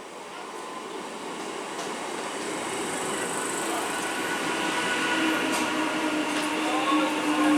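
Electric train approaching at speed along the track, its running noise growing steadily louder, with a steady hum that strengthens in the second half.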